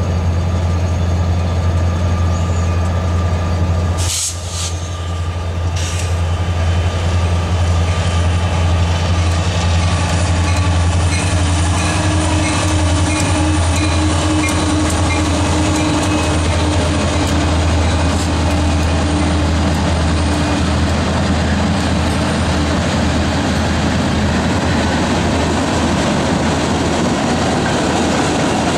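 A Union Pacific diesel freight train passing close by: locomotives, then a long string of hopper and freight cars rolling past on the rails with a steady low rumble. There is a brief break about four seconds in.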